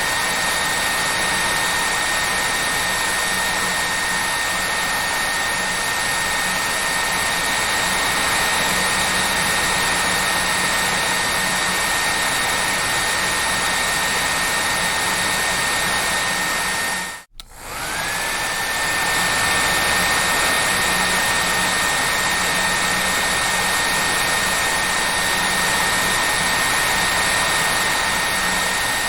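Hair dryer running steadily: a full rush of air with a high motor whine. Past the middle it cuts out for an instant and comes back, its whine rising back up to pitch.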